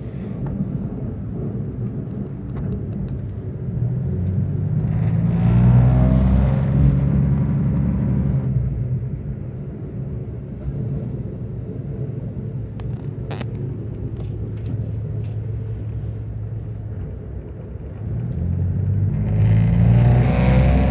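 Diesel railcar running, heard from on board as a steady rumble. The engine drone swells louder and higher twice, about a quarter of the way in and again near the end. There is one sharp click about two-thirds of the way through.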